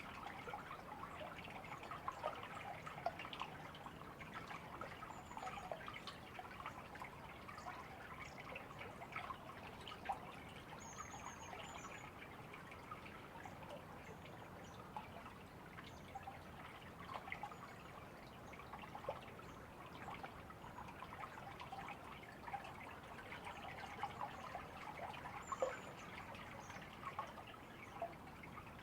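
A small stream trickling and dripping steadily, with many little splashes.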